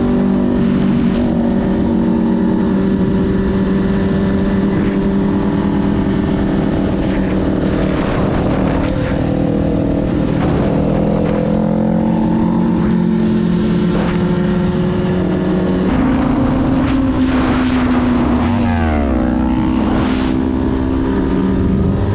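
Motorcycle engine running steadily while riding, its note shifting up about 16 seconds in and briefly sweeping down near 19 seconds.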